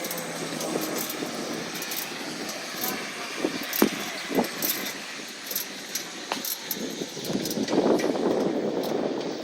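Recycling truck running, with a few sharp metallic clanks around four and six seconds in and a louder stretch of rattling near the end.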